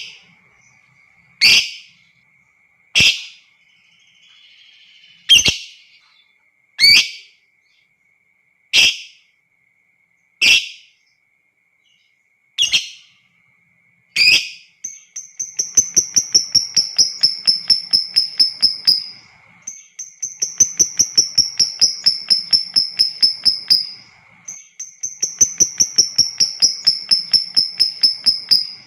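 Lovebird calling: about nine sharp single shrieks a second or two apart, then from about halfway three long runs of rapid chattering, the lovebird's 'ngekek', each about four seconds with short pauses between. A faint steady high tone runs underneath.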